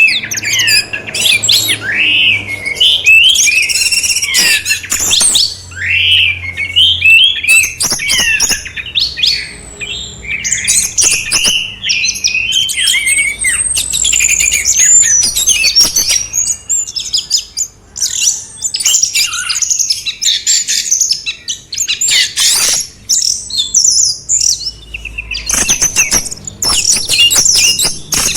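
Songbirds singing a dense, continuous run of varied whistles, chirps and fast trills. About halfway through, the song shifts to higher, thinner notes.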